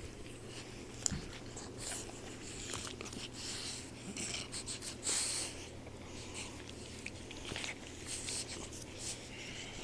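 Sleeping four-month-old boxer puppy snoring, breathing noisily in uneven bursts that are loudest about five seconds in. A short sharp click comes about a second in.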